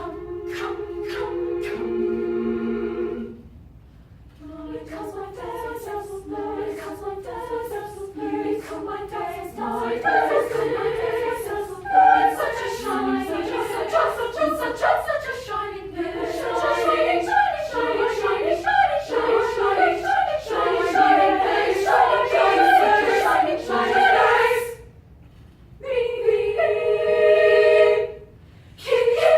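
High school choir singing: a held chord, a short break about three seconds in, then busier moving vocal lines, and near the end short held chords separated by brief pauses.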